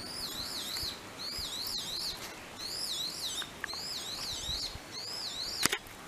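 A bird singing, over and over, a phrase of quick up-and-down whistles, about one phrase a second. A single sharp click comes near the end.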